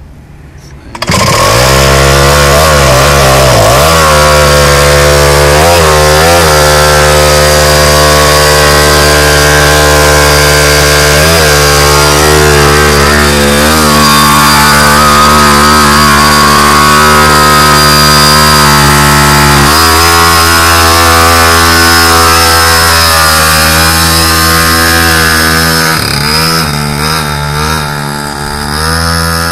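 Pocket bike's small two-stroke engine firing on starting fluid about a second in and running loud at high revs, its revs rising and dipping a few times. Near the end it runs more unevenly and a little quieter.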